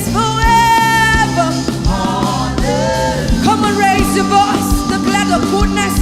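Live gospel praise and worship music: a lead voice singing held, sliding notes over a band with a steady drum beat.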